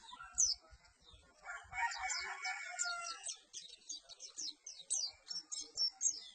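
Perci bird singing: a fast run of short, high, downward-sweeping chirps that fills the second half, with a single high note just before. A lower, longer call sounds from about one and a half to three seconds in.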